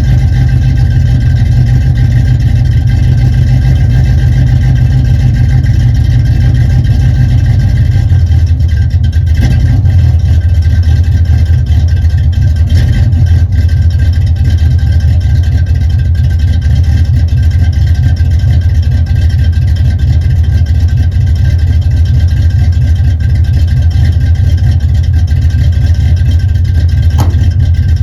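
1978 Chevrolet El Camino's engine with an aftermarket cam idling steadily after a cold start in freezing weather without a choke. The idle settles slightly lower about eight seconds in.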